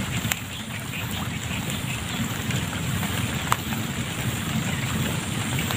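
Light rain falling on still swamp water, a steady hiss, under a low wind rumble on the microphone. Two short clicks, one just after the start and a sharper one about halfway through.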